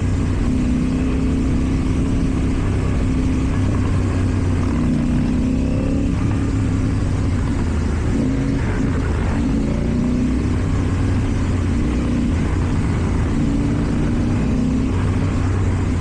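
KTM Duke 790's parallel-twin engine through an Akrapovič exhaust, ridden at low speed in traffic with the throttle opening and closing in stretches of a second or two.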